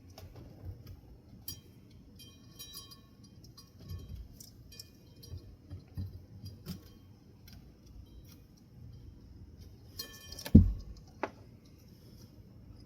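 Small clicks and metallic clinks of ceiling fan motor parts and tools being handled, with a louder knock and a brief metallic ring about ten and a half seconds in.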